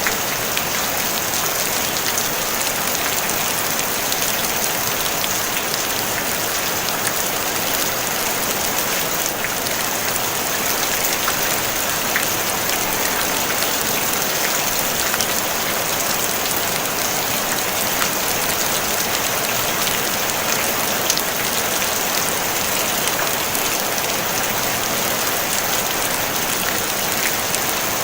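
Steady rain on a tin roof: a dense, even hiss with faint scattered drop ticks and no thunder.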